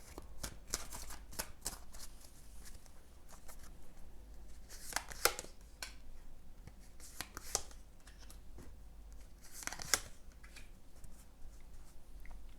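Tarot cards being shuffled and handled: a run of quick soft flicks and clicks, with three louder snaps of cards, about five, seven and ten seconds in.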